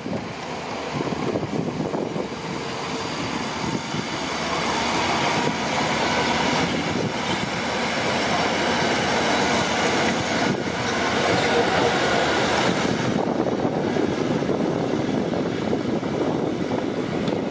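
Crawler bulldozer at work: its diesel engine running along with the clatter and squeal of its steel tracks, growing louder about four seconds in.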